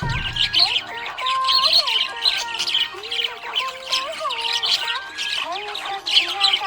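Budgerigar chattering in quick, continuous chirps and warbles, over a melodic tune of held and gliding notes.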